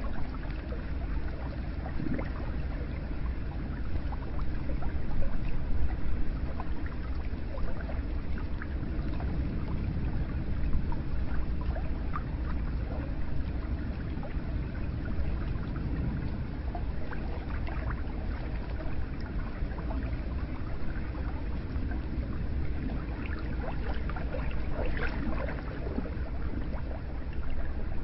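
Hot spring water flowing and trickling steadily, with many small splashes and drips.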